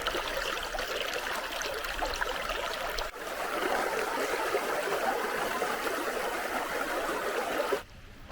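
Running water of a river or stream, a steady rush; it breaks off for a moment about three seconds in and stops suddenly near the end.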